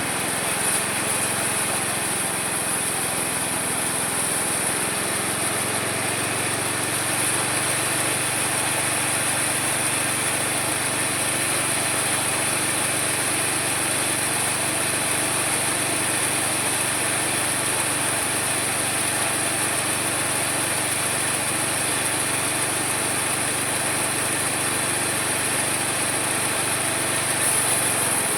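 Homemade mini sawmill running steadily, a small-engine drone with a steady high whine over it, getting slightly louder near the end.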